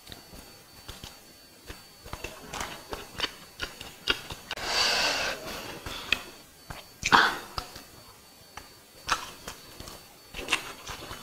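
Close-miked eating sounds of egg biryani being chewed: wet chewing and lip and tongue clicks, with a hiss-like rush lasting about a second around five seconds in and a short, loud burst at about seven seconds.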